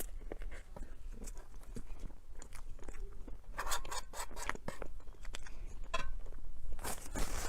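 Close-miked eating sounds of a dessert: chewing and biting with many small sharp crunches and clicks, and a couple of louder crunchy bursts about four seconds in and near the end.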